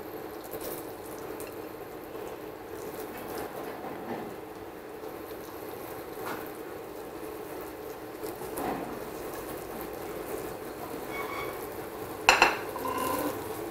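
Sweet potato slices coated in spiced varai flour shallow-frying in oil in a nonstick pan, a steady sizzle, with soft taps as more slices are laid in. A loud clatter comes near the end.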